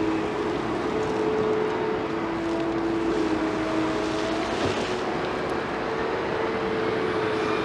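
Liebherr 946 hydraulic excavator running under load: a steady machine din with a few held tones that shift slightly in pitch as it works.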